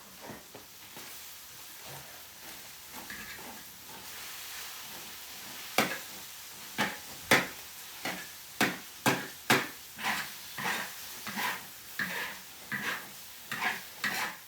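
Metal spatula scraping and tapping in a pan of stir-fried rice over a faint sizzle; about six seconds in, a run of sharp scrapes and knocks starts, roughly one or two a second.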